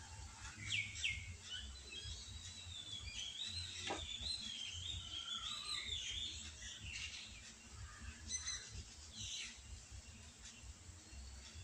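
Songbirds chirping and singing, with quick downward-sweeping calls and a long warbling run in the middle. There is a single short knock about four seconds in, over a low steady hum.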